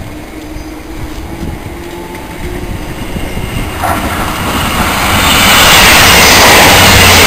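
Electric passenger train running through on the near track at speed: the rush of wheels on rails builds from about three seconds in and is loud over the last two seconds as the carriages pass.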